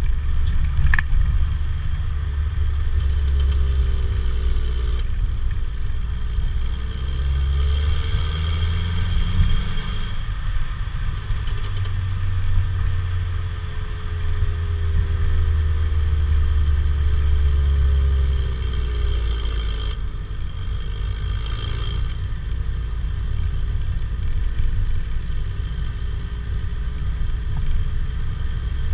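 Opel Vectra B's 1.8-litre four-cylinder petrol engine (X18XE1) running through a Novus aftermarket rear silencer: a steady deep exhaust rumble whose engine note slowly rises and falls in pitch as the revs change.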